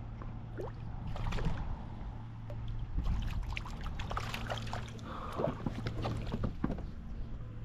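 Scattered clicks, knocks and water sounds of a small baitfish being reeled in and handled aboard a kayak, over a steady low rumble of wind.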